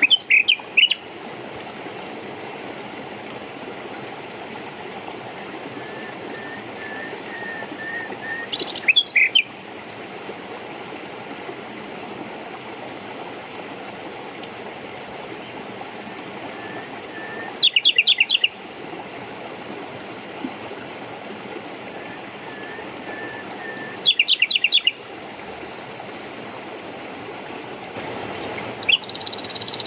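A stream running steadily, with birds calling over it: a loud burst of quick chirps five times, several seconds apart, and softer strings of short notes in between.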